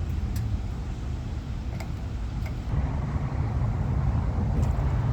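4.8-litre LS V8 engine and exhaust heard from a car on the move: a steady low drone. About three seconds in, it rises in pitch and gets louder as the revs pick up.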